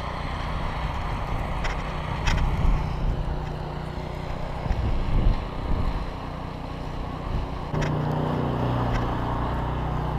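Wind buffeting the microphone with a low rumble and a few faint knocks. About eight seconds in, a steady motor hum starts and keeps going.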